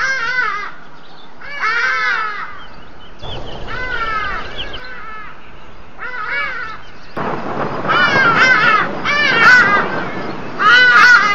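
A bird giving harsh, cawing calls in bursts of several notes every second or two, the loudest bursts near the end.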